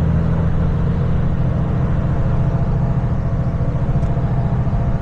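Steady drone of a vehicle's engine and road noise heard from inside the cab while cruising at speed.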